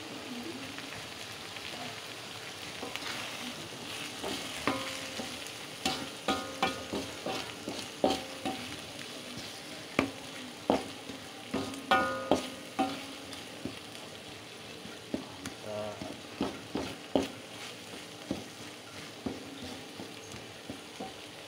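Chili sambal terasi sizzling as it fries in a wok while a wooden spatula stirs and scrapes through it, with repeated sharp knocks of the spatula against the wok, some of them briefly ringing.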